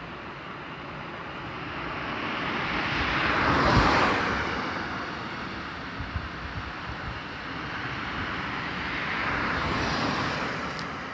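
Two passing vehicles, each heard as a rush of noise that swells and fades: the louder about four seconds in, a weaker one near the end.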